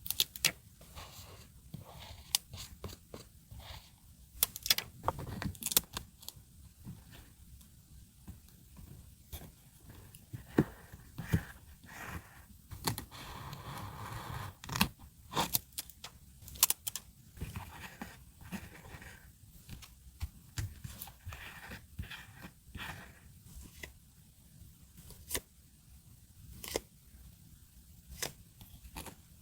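Paper, stickers and masking tape being handled for scrapbook journaling: irregular light taps, clicks and rustles, with a steadier tearing sound lasting about two seconds about halfway through.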